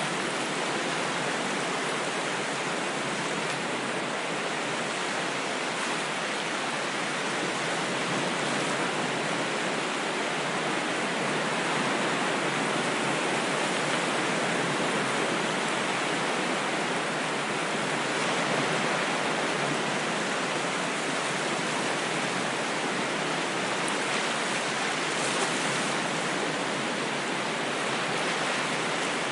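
Ocean waves as a steady, even rush of surf, with no separate breaking swells standing out.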